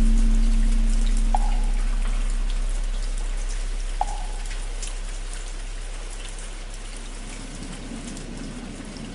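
Steady rain pattering, under the deep hum of a large bell fading slowly after being struck. There are two light wooden knocks, about a second and a half and four seconds in.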